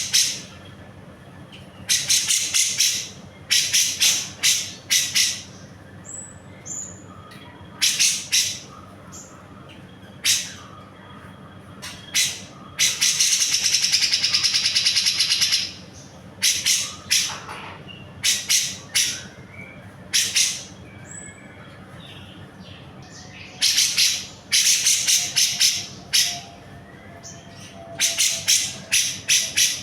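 Grey-cheeked bulbul (cucak jenggot) singing in repeated bursts of rapid, chattering notes, with a long unbroken trill of about three seconds in the middle.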